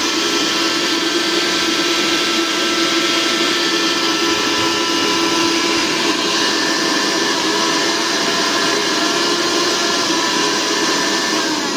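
Mixer grinder's motor running steadily at full speed with a high whine, powered through its newly replaced mains cord.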